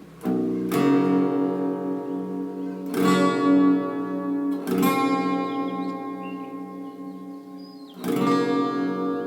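Acoustic guitar in a drop tuning, chords strummed and left to ring out: a strum near the start, then fresh strums about three seconds in, just before five seconds and about eight seconds in, each slowly fading.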